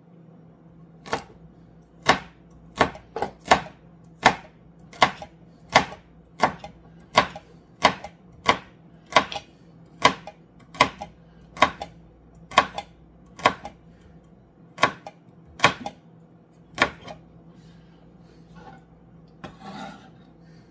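Knife chopping vegetables on a cutting board for soup: some twenty sharp, evenly spaced strokes, a little over one a second, which stop about four seconds before the end.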